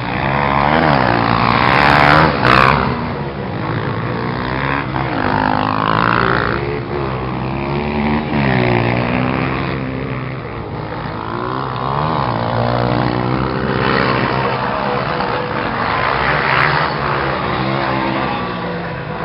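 Several motocross motorcycle engines revving at once, their pitch repeatedly rising and falling as they accelerate and back off, overlapping one another.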